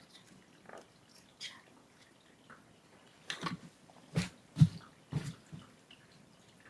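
Scattered light clicks and taps, then a few soft thumps in quick succession about three to five seconds in, close to the microphone.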